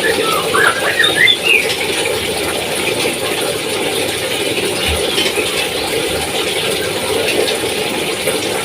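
A lory (nuri parrot) giving a quick run of short squeaky calls in the first second and a half, over a steady background noise.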